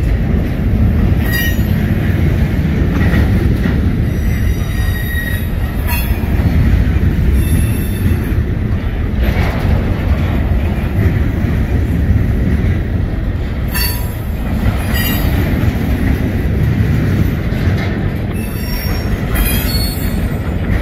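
Freight cars of a Union Pacific train rolling past close by: a steady low rumble of steel wheels on the rails, broken by repeated brief high-pitched wheel squeals and screeches.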